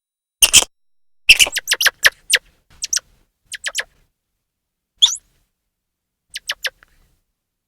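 Grey squirrel chirping calls: short, sharp chirps in irregular bouts, with a quick run of about half a dozen a little over a second in, then scattered pairs and threes.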